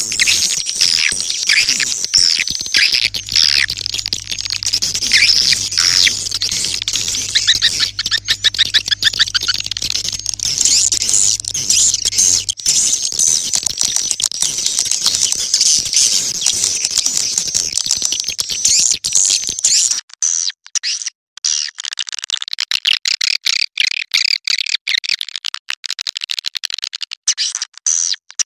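Swiftlet-calling lure sound: a recording of many swiftlets twittering in dense, rapid, high-pitched chirps, the kind played to draw swiftlets into a nesting house. About 20 seconds in the sound changes to a choppier run of chirps with brief gaps.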